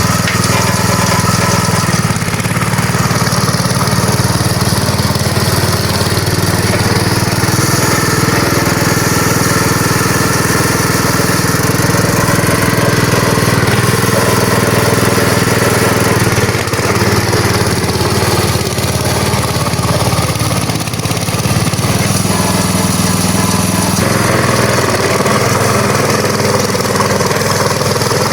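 Small engine running continuously, its note shifting slightly now and then.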